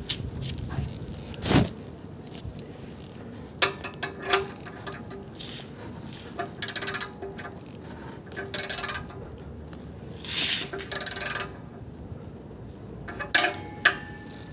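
Hand tools working on metal parts in a car's engine bay: scattered metal clinks and several short bursts of rapid clicking, as parts are tightened.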